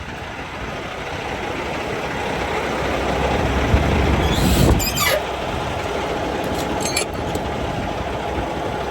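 A motor vehicle running nearby, its rumble building to a peak about halfway through and then easing back, with a sharp rattle or click just after the peak and another a couple of seconds later.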